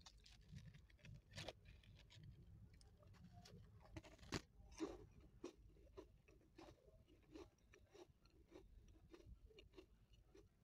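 Faint close-up chewing of a crisp baked biscuit: a string of short crunches, the loudest about a second and a half in and around four to five seconds in, then softer, evenly spaced chewing crunches about one to two a second.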